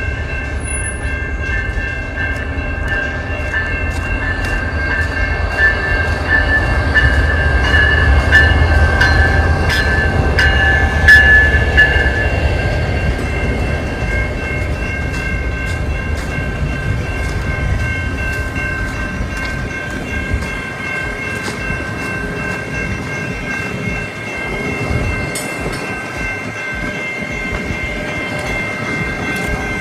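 Train running on the rails: a deep rumble with sharp clicks of wheels over rail joints and a steady high-pitched whine on top. The rumble is strongest around ten seconds in and eases off after about twenty seconds.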